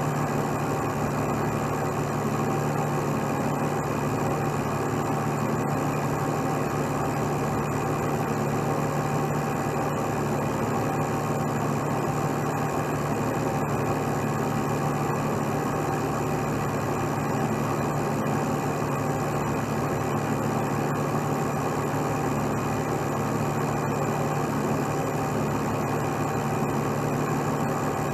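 Heavy truck's diesel engine running steadily at idle, an unchanging low drone.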